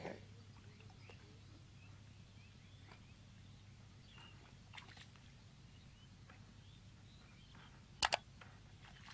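Faint outdoor ambience: a steady low hum with a few faint short chirps, and a sharp double click about eight seconds in.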